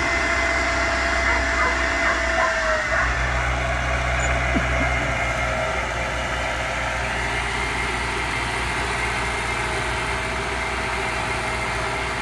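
Zetor tractor's diesel engine running steadily under load while sowing corn. A higher whine glides down and fades out about three seconds in.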